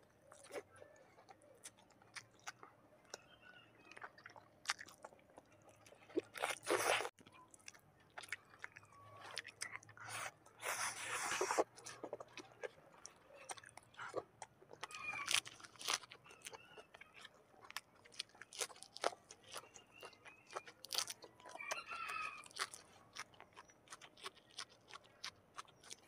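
Close-miked chewing of chicken stewed in coconut milk, with wet mouth clicks throughout and two longer, louder stretches of crunching about six and eleven seconds in.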